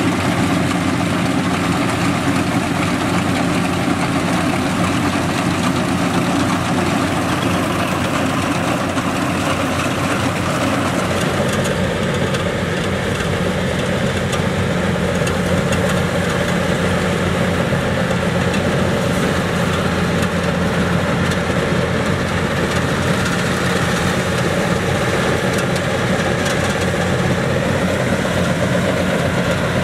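Yanmar YH700 rice combine harvester's diesel engine running steadily under load, with a change in its hum about a third of the way through.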